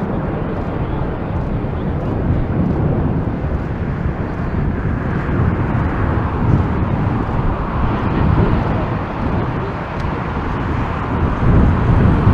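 Jet airliner engines roaring as it flies near the runway, the roar swelling in the middle, over a gusty low rumble of strong wind on the microphone.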